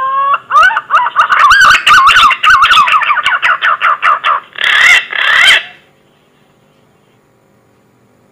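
Green pigeon (punai) call: a rising whistle leads into a quick run of wavering, fluting whistled notes. Two harsher notes close the call, which stops about six seconds in.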